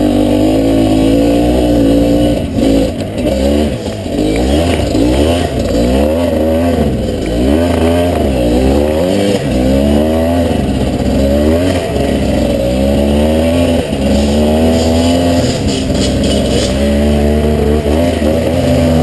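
Two-stroke single-cylinder dirt bike engine, a Honda CRM250R, revving up and down over and over, the throttle opened and closed about once a second as the bike is ridden.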